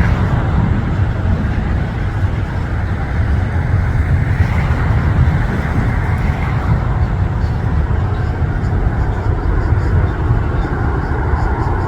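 Jet noise from an Airbus A380-842's four Rolls-Royce Trent 900 engines as the airliner comes in to land: a loud, steady rumble that swells slightly midway.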